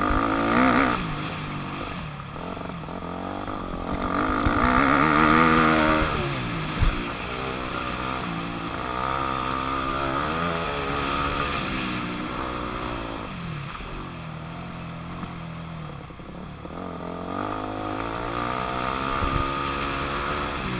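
2006 Yamaha YZ250F four-stroke single-cylinder dirt bike engine revving up and falling back again and again as it rides a motocross track. There is a sharp knock about seven seconds in.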